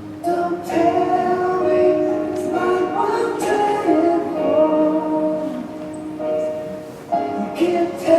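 A choir singing, several voices together holding long notes that change step by step.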